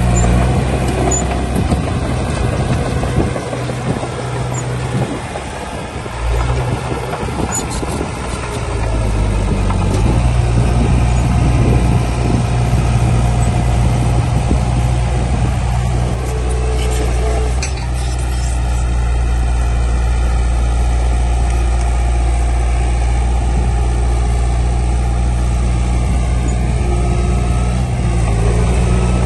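Heavy diesel engine of earthmoving machinery running under load. It eases off for several seconds a few seconds in, then picks up again about ten seconds in and holds steady.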